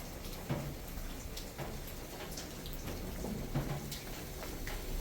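Water dripping and splashing: scattered irregular drops over a faint steady hiss.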